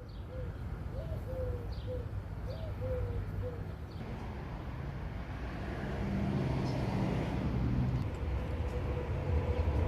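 A dove cooing a quick run of short notes, then a motor vehicle's low rumble that grows louder from about halfway through.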